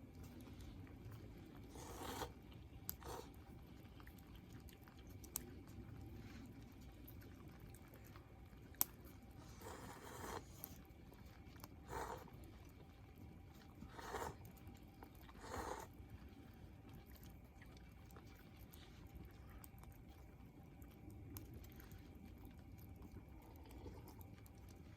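Faint short crunching sounds, a pair early on and then four about two seconds apart, with a single sharp crack about nine seconds in, over a low steady rumble.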